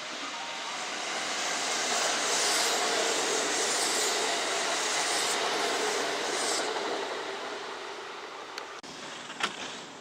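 Kintetsu electric train running through the station: the rushing noise builds over the first two seconds, holds, then fades away. A couple of sharp clicks come near the end.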